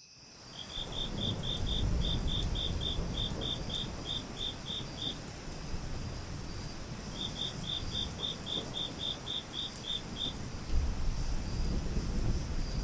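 A cricket chirping in two runs of evenly spaced high chirps, about four a second, with a low rumble underneath.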